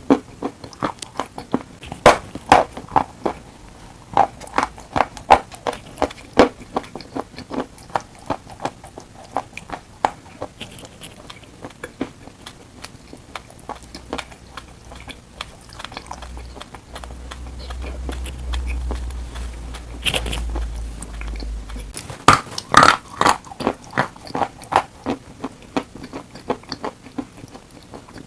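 Dry chalk being bitten and chewed close to the microphone: a steady run of sharp, irregular crunches. A low rumble comes in for several seconds past the middle.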